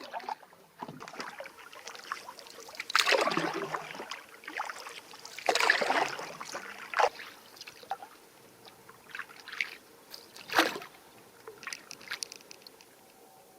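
Canoe paddling: irregular paddle strokes splashing and dripping in the water, the loudest about three seconds in, around six seconds and near eleven seconds.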